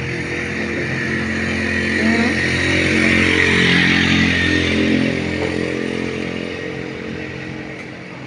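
Road traffic: a motor vehicle engine passing close, growing loudest about three to four seconds in and then fading away.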